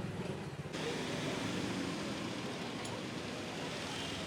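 Steady city background noise, an even hiss with no clear single source, changing abruptly less than a second in as a brighter hiss takes over.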